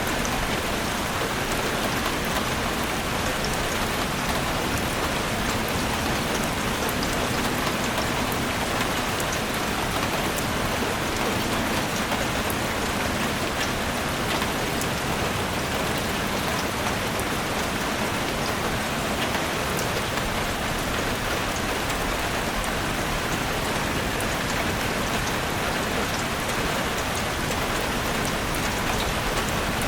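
Steady rain: an even, unbroken hiss with scattered sharp ticks of single drops.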